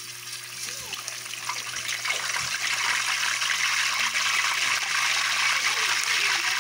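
Pork bones sizzling and crackling in hot oil in a wok. The sizzle swells over the first couple of seconds as the meat goes in, then holds steady.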